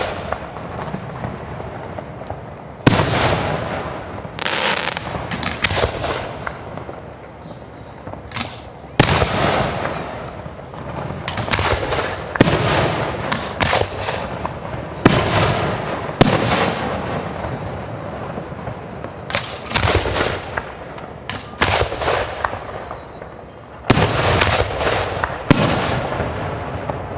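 Aerial fireworks display: shells bursting one after another, a sharp bang every second or two, each trailing off in a long rumbling echo.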